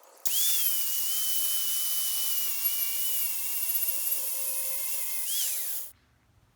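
An electric power grinder running on steel: its high whine spins up and settles slightly lower under load over a dense grinding hiss. Near the end the pitch rises briefly, then falls away, and the sound cuts off suddenly.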